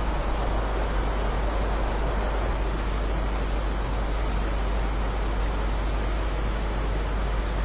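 Steady heavy rain: an even, unbroken hiss with a deep low rumble underneath.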